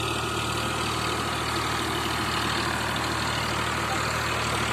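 Eicher 551 tractor's diesel engine running steadily.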